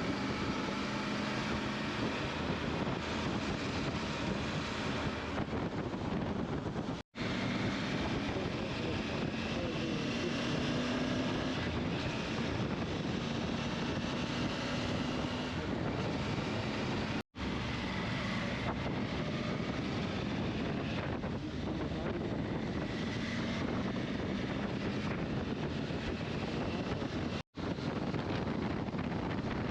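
Motorcycle engine running under way, its note slowly rising and falling, under heavy wind noise on the microphone. The sound drops out briefly three times.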